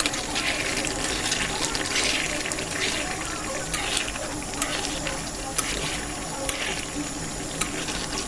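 Kadai chicken cooking in a kadai: a steady sizzle and bubbling with swells of louder hissing, and several sharp clicks in the second half.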